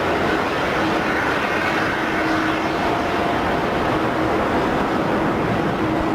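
Rolls-Royce Trent XWB turbofans of an Airbus A350-900 at takeoff thrust: a loud, steady jet roar, with a faint humming tone that comes and goes.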